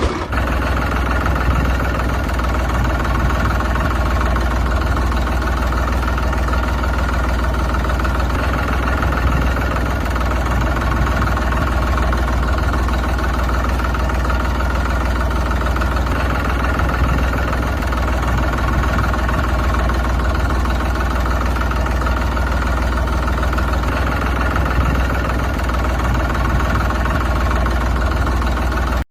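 An engine running steadily at an even, fast chug.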